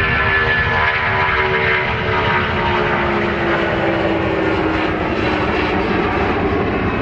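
Aircraft engines running loud as a plane passes, their tone falling slowly and steadily as it goes by, over a heavy rumble.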